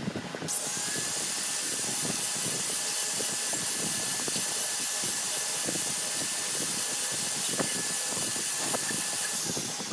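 A power tool running steadily for about nine seconds, starting about half a second in and stopping near the end: a high hissing noise with a faint steady whine.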